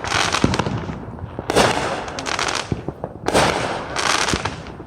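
Small consumer fireworks going off in three bursts of rapid crackling pops and hiss, each lasting about a second with short gaps between.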